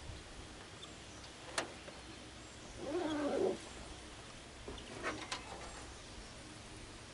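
A bird gives one harsh, drawn-out call about three seconds in. A sharp click comes before it and a few more come after.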